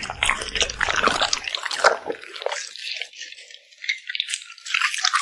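A dog eating close to the microphone, chewing and smacking its lips in a run of quick, irregular wet clicks. The clicks are fuller in the first half and lighter and thinner after that.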